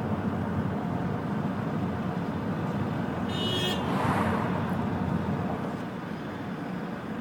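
Small 80cc motorcycle engine running steadily at speed. A short high beep like a horn sounds about three seconds in, followed by a brief whoosh.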